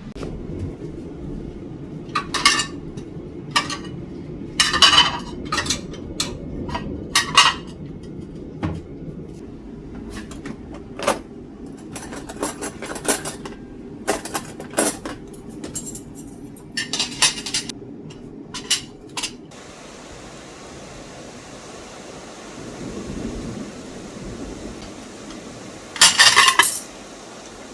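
Kitchen dishes and cutlery being handled: a run of separate clinks and knocks over a low steady hum, then a louder clatter lasting about a second near the end.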